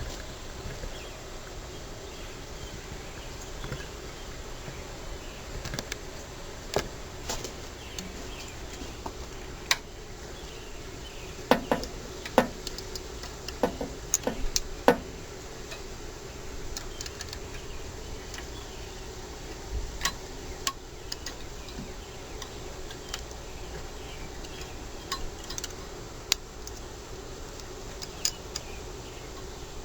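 Scattered light clicks and clinks of small metal parts and tools being handled during small-engine carburetor reassembly, with a quick run of louder knocks about halfway through, over a faint steady hum.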